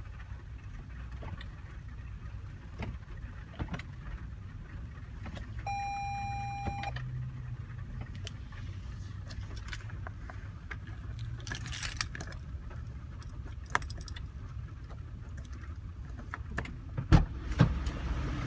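Inside a 2016 Toyota Highlander: a steady low rumble, a single car warning chime lasting about a second some six seconds in, and a few sharp clicks and knocks near the end.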